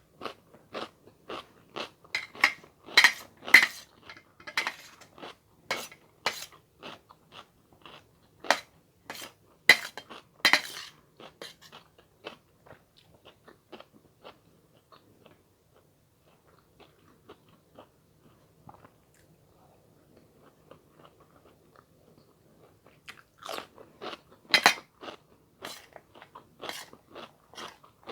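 Close-miked chewing and crunching of food in a person's mouth. A quick run of loud crunches is followed by a stretch of quieter chewing, and the crunching picks up again near the end.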